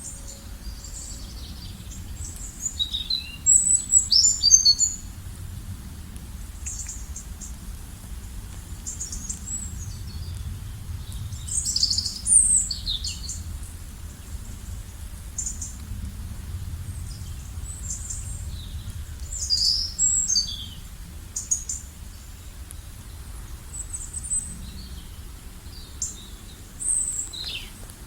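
Songbirds chirping and trilling in short bursts of high notes, a few seconds apart, over a steady low background rumble.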